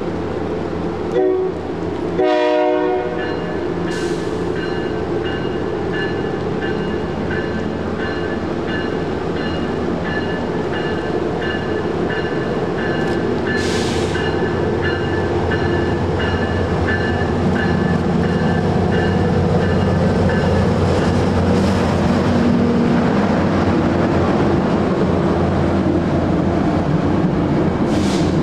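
A train running through the station with continuous rail and running noise. A short horn blast sounds about two seconds in. A high ringing tone repeats about twice a second, stopping about two-thirds of the way through, while the running noise grows a little louder toward the end.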